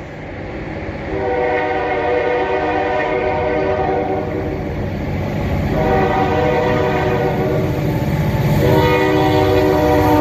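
Diesel locomotive air horn sounding a chord in long blasts: two long blasts, then a third beginning near the end, over a low locomotive rumble that grows louder as the train draws near.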